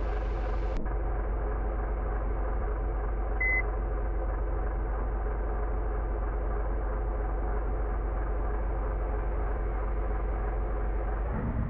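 Car engine running steadily, a drone with even pitch throughout. One short, high electronic beep sounds about three and a half seconds in.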